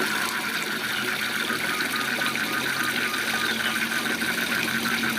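Steady rush of a waterfall with frogs calling in a chorus of rapid, evenly repeated pulses.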